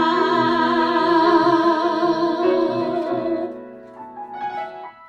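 Two female voices in a folk duet hold a long sung note together with vibrato over soft acoustic accompaniment, releasing it about three and a half seconds in. Quieter instrumental notes then ring and fade into a brief pause.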